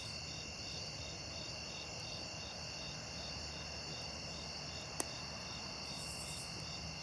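Crickets chirping in a steady, evenly pulsing chorus, with one sharp click about five seconds in.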